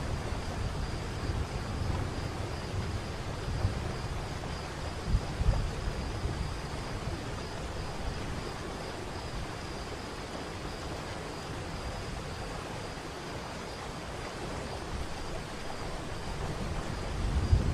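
Waterfall's falling water making a steady rushing hiss, with a deep rumble underneath that swells and eases; a faint steady high tone runs through it.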